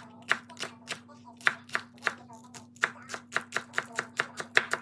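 Kitchen knife chopping on a cutting board in quick, even strokes, about four a second, most likely cutting chives.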